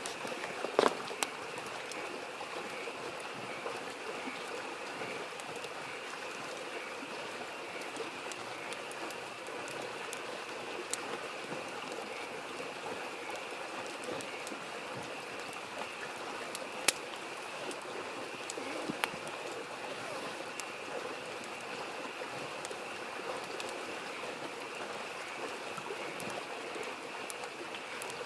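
Campfire crackling with scattered sharp pops, over a steady babbling stream and a continuous chorus of frogs.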